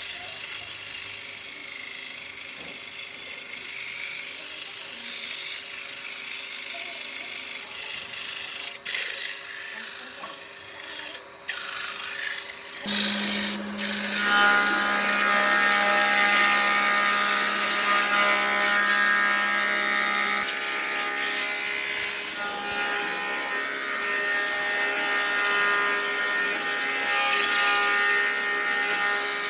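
A tool working wood: a rough, scratchy rubbing for the first part, then about halfway through the steady whine of a power tool's motor joins in.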